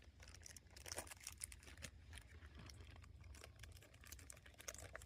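Faint crinkling of a plastic salad-kit topping packet as bacon bits are shaken out onto the salad: many small, irregular clicks and rustles.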